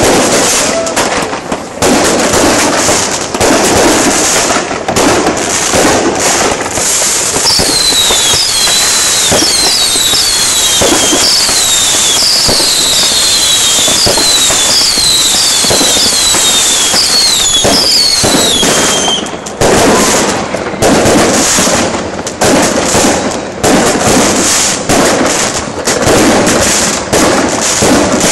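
New Year's Eve fireworks: a dense, continuous barrage of firecracker bangs and crackling. From about a quarter of the way in until about two-thirds through, a string of short whistles, each falling in pitch, runs over the bangs.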